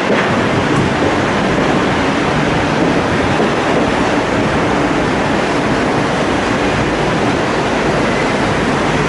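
Steady rumble and rushing noise of a moving passenger train heard from on board, its wheels rolling along the rails without any distinct clicks or changes.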